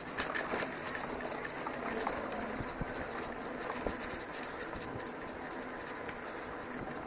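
Bicycle ridden over a rough dirt trail: steady tyre and wind noise with irregular rattles and knocks as the bike goes over bumps.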